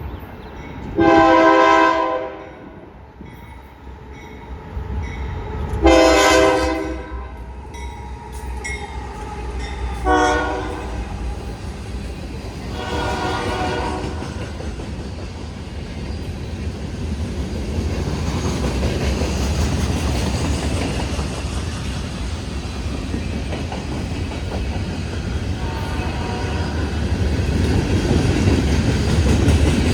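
Union Pacific diesel locomotive sounding its multi-tone horn in the long-long-short-long grade-crossing pattern, with a fainter blast later. Between and after the blasts the train rumbles past ever louder, with rail clatter building toward the end.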